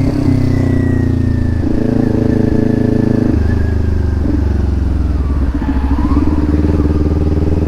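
Kawasaki Ninja 400 parallel-twin motorcycle engine running under way, its note jumping to a new steady pitch a couple of times.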